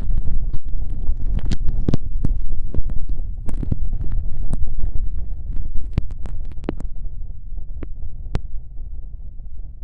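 Ear licking into the left ear of a binaural ASMR microphone: wet tongue clicks and smacks over a deep, muffled rumble from the ear being blocked. The clicks come thick and fast, then thin out after about seven seconds.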